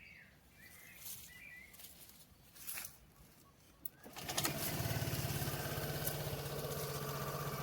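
Aprilia SR GT scooter's single-cylinder engine started about four seconds in, then idling steadily.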